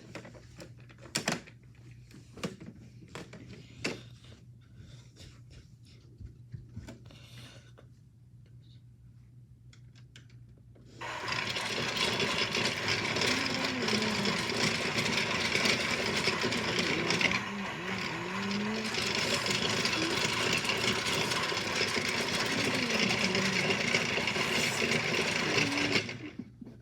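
Washmatic toy washing machine running: its small electric motor starts suddenly about eleven seconds in, runs steadily with a pitch that wavers up and down, and cuts off near the end. Before it starts, a few light clicks and knocks of the toy being handled.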